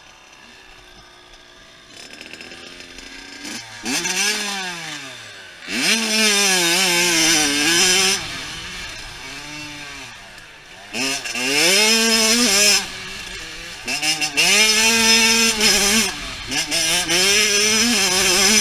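Dirt bike engine revving hard through the gears, its pitch climbing and dropping again and again as the rider opens and closes the throttle. It starts faint, with the first rev about three and a half seconds in; the loudest runs begin about six seconds in and come again later.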